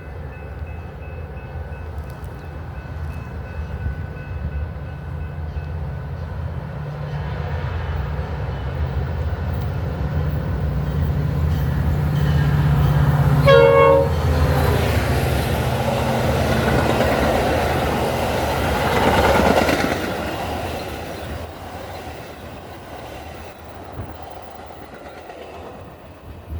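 A train approaching and passing: a low engine drone builds up, a short horn blast sounds about halfway through, then loud rolling noise from the passing cars peaks and fades away.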